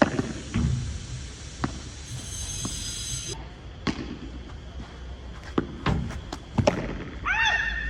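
Padel rally: a string of sharp, irregular knocks as the ball is struck by rackets and bounces on the court.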